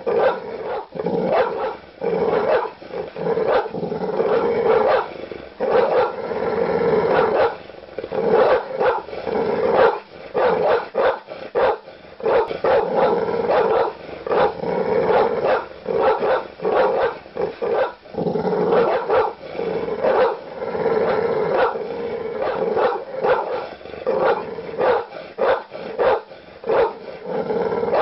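A large dog barking aggressively, deep barks in quick runs one after another with hardly a pause.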